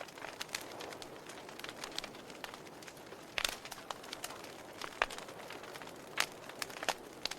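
Wood fire crackling in a fireplace: irregular sharp pops and snaps over a soft steady hiss, with a few louder pops about three and a half, five and six seconds in.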